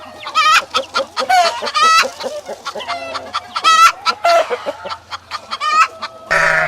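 Chickens clucking: a fast run of short, sharp calls, several overlapping. Near the end a different, lower animal call starts abruptly.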